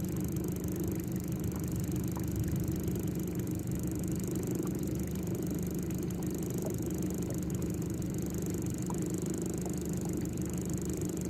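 A steady low hum, like a small motor running, with a few faint ticks over it.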